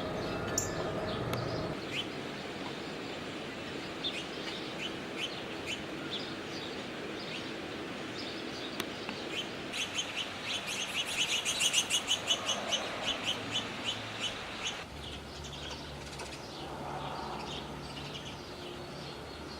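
Small songbirds chirping, with scattered single chirps and a quick run of chirps, about four or five a second, roughly halfway through.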